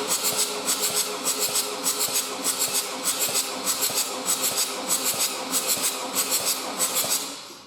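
Ford Transit 2.2 TDCi four-cylinder diesel engine running on a test stand just after starting, with an even pulsing clatter a few times a second, then shut off and running down near the end.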